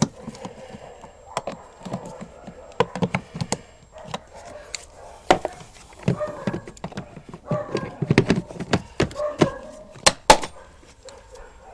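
Plastic engine-bay trim panels being handled and pressed into place: a string of sharp clicks and knocks.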